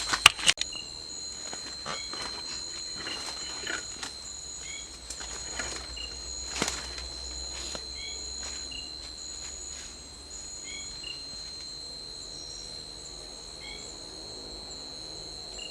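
Night insect chorus in a tropical forest: a steady, high-pitched cricket-like trill, with a second insect pulsing higher about once a second and short chirps now and then. A few sharp knocks come in the first second.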